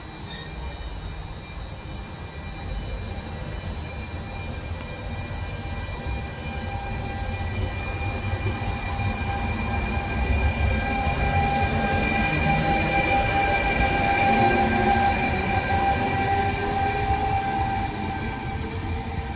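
Trenitalia regional passenger train moving off, a low rumble under several steady high-pitched whines and wheel squeal. It grows louder to a peak about 14 seconds in, then eases off near the end.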